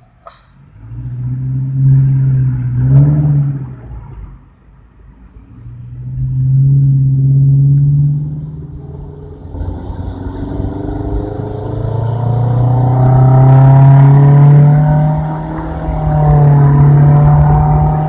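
Subaru XV's 2.0-litre flat-four engine breathing through an aftermarket HKS dual exhaust, accelerating hard: the engine note climbs and drops several times as the revs rise and fall, with a longer climb in the second half.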